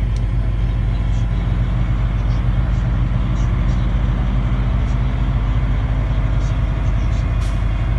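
Semi-truck diesel engine running with a steady low drone, heard from inside the cab.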